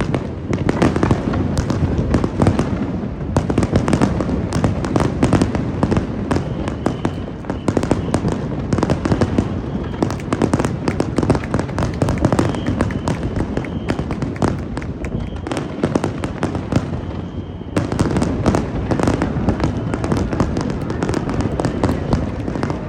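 Fireworks grand finale: a dense, unbroken barrage of shell bursts and crackling, many reports overlapping each second.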